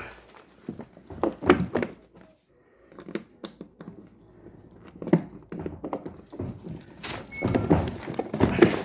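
Irregular knocks and clunks of washing-machine parts being handled and fitted into the machine's body during reassembly, with a busier run of clatter near the end.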